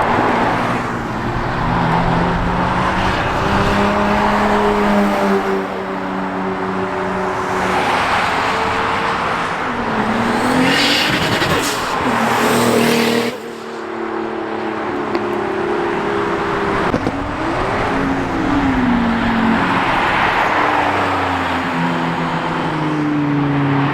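Several cars' engines revving and accelerating as they drive past, their exhaust notes rising and falling in pitch and overlapping. A louder, hissier stretch comes about eleven seconds in and cuts off suddenly a couple of seconds later.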